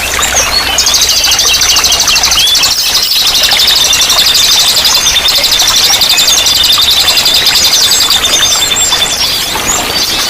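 Several songbirds chirping and calling over a steady rush of running water. One long, rapid trill starts about a second in and stops near the end.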